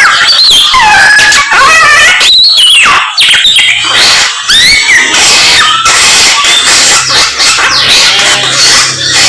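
Samyong songbird singing a loud, varied run of whistled phrases, many notes sliding up and down. A faint low steady hum joins underneath a few seconds in.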